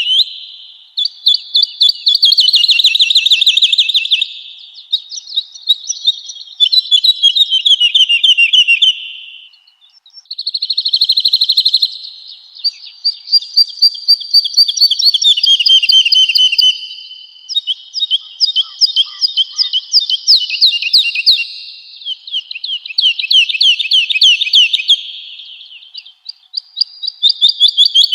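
Woodlark singing: phrase after phrase of fast, rapidly repeated high notes, each phrase a few seconds long, some sliding down in pitch at the end, with only short pauses between them.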